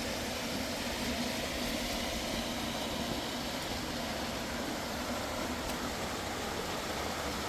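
Steady rushing of a fast mountain river, an even hiss that does not change.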